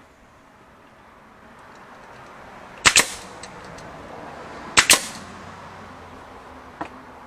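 Nails being driven into birdhouse wood: two sharp double cracks about two seconds apart, then a lighter single tap near the end.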